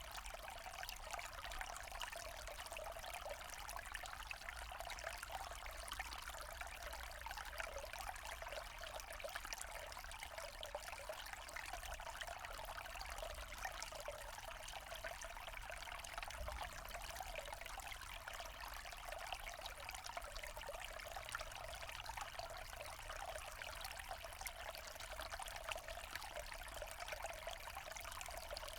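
Forest stream running over rocks: a steady, even trickling and babbling of water.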